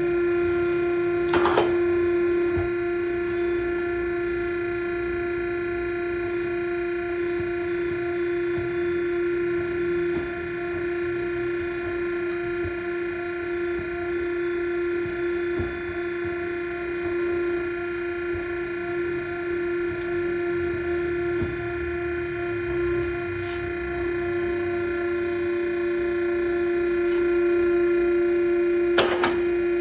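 Steady hum of the electric motor driving a U-bolt bending machine, with two brief sharp sounds, one about a second and a half in and one near the end.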